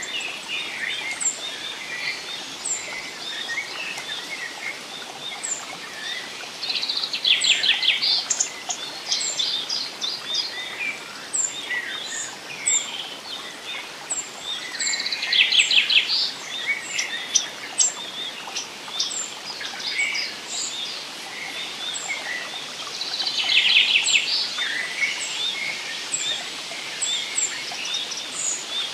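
Several songbirds singing over a steady background hiss of forest ambience. One bird repeats a short, very high chirp every second or two, while louder rapid trilled phrases come about every eight seconds.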